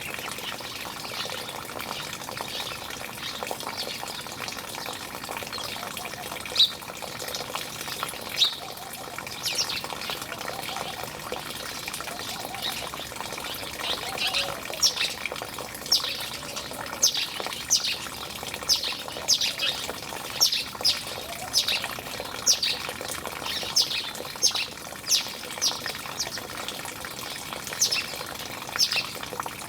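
Birds giving short, sharp squawking call notes over steadily running water; the calls are few at first, then repeat about once or twice a second through the second half.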